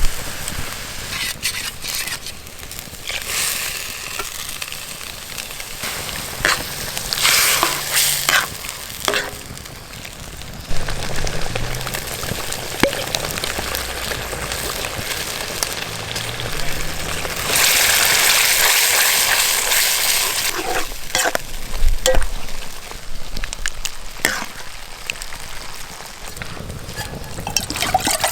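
Food frying in a pan over a campfire: a steady sizzle with scattered knocks from stirring, and a louder burst of sizzling for a few seconds starting about eighteen seconds in.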